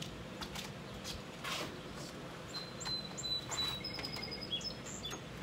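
Birds chirping in short high whistles over a quiet outdoor background, with a couple of brief soft noises.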